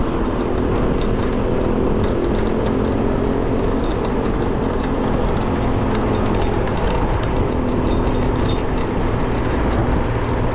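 Steady wind rush and city street traffic heard from a moving electric bicycle. The noise is continuous and strongest in the low end, with no single loud event.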